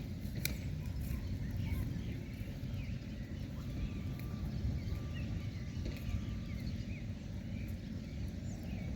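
Outdoor riverside ambience: an irregular low rumble of wind on the microphone, with scattered short bird chirps over it.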